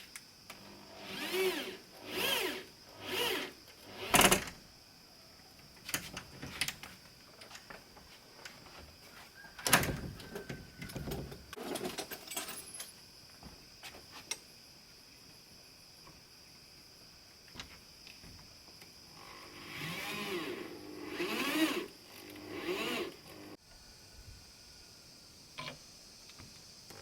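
Woodworking on timber: a few short tool strokes, a sharp knock about four seconds in, scattered clicks and taps, and another run of strokes near the end.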